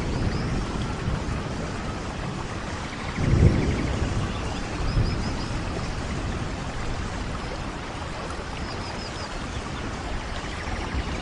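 Steady rain falling, with a brief low rumble about three seconds in and faint high chirps twice later on.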